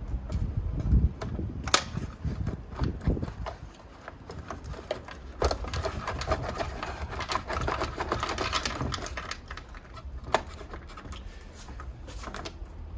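Irregular clicks, taps and rattling of metal and plastic parts as an iMac's logic board is wiggled and pried against its chassis to work it loose, with a denser rattle about two-thirds of the way through.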